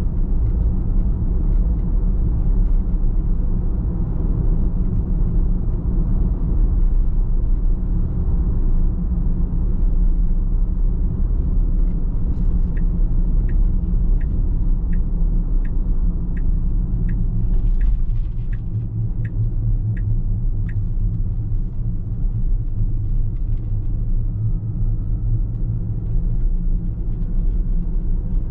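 Steady low road and engine rumble of a car being driven. In the middle comes a run of about a dozen evenly spaced ticks, a little over one a second, typical of a turn-signal indicator clicking.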